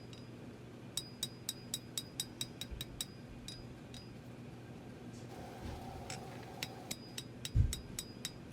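Hand hammer striking hot steel on an anvil in light, quick blows, about four a second, each with a short ringing clink, drawing out the bevel of a small knife blade. Two runs of blows with a pause between, and one dull thump near the end.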